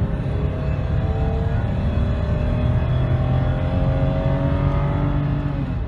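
A BMW E39 523i's 2.5-litre straight-six, heard from inside the cabin, pulling hard under acceleration with its automatic gearbox in drive. The engine note rises steadily as the revs climb through a gear toward about 5,500 rpm.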